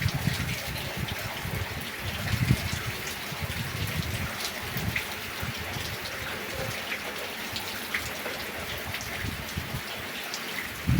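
Heavy rain falling steadily, with individual drops ticking close by and low thumps in the first few seconds.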